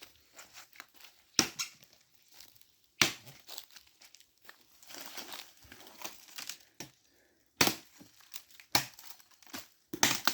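Dead cashew-tree wood and dry brush being handled, snapping and crackling, with about five sharp cracks among lighter rustling.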